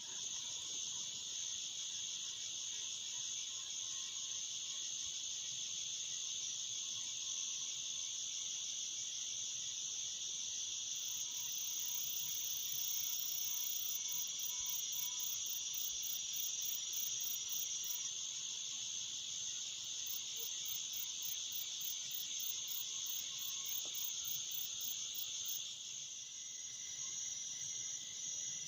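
Crickets chirring in a steady, unbroken high-pitched chorus. A second, even higher insect call pulses about four times a second in two stretches through the middle.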